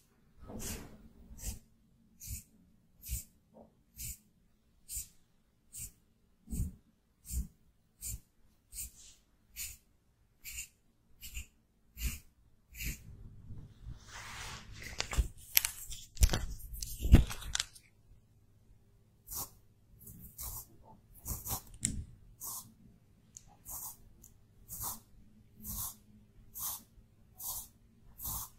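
Close-miked makeup being applied: short, soft brushing strokes repeating a little more than once a second, with a denser stretch of scratchy rustling and a few low knocks in the middle.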